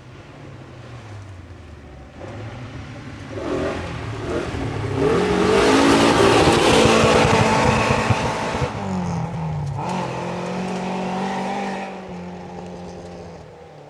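Rally car's engine revving hard, growing louder to a peak about six to seven seconds in. The pitch drops a little after eight seconds, and the engine then runs on steadily while fading away.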